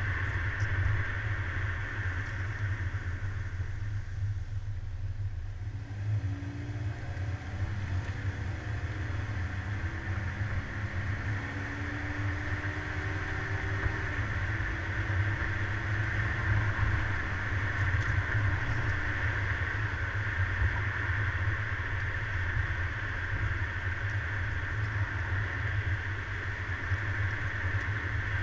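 Car driving, heard from a suction-cup-mounted camera on the car: a steady low engine and road rumble with a constant higher hiss. Partway through, a fainter pitched engine note steps up and down for several seconds.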